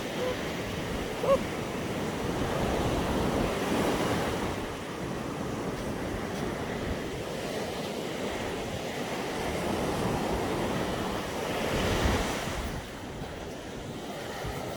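Sea surf washing onto a beach, swelling louder twice as waves break, with wind buffeting the microphone.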